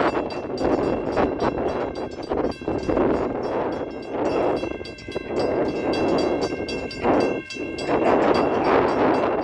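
NJ Transit train passing close by, with wind buffeting the phone's microphone in uneven gusts. Several steady high-pitched tones join in about four seconds in and hold to the end.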